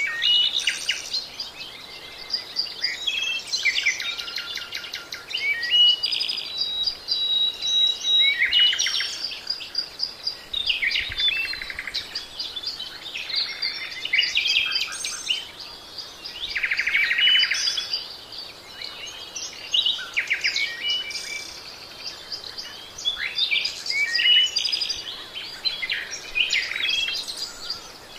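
Birds singing in a continuous, varied run of high chirps and quick trills, one phrase after another with short gaps.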